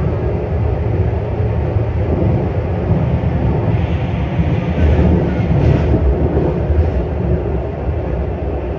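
Beijing Subway Line 6 train running between stations, heard inside the car: a steady loud low rumble from the wheels and running gear, with a stretch of louder hiss about halfway through.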